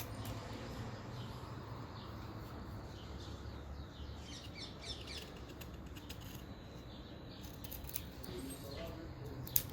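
A dull folding knife working through fatwood, more splitting the wood than cutting it, with a few small sharp clicks and cracks. Birds chirp in the background, a short burst of calls around the middle.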